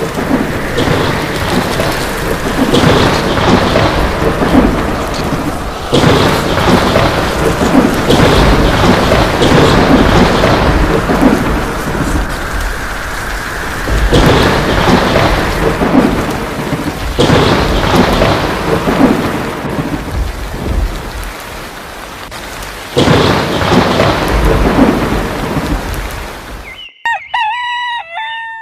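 Heavy rain with thunder rumbling and swelling several times. Near the end the storm cuts off and a rooster crows.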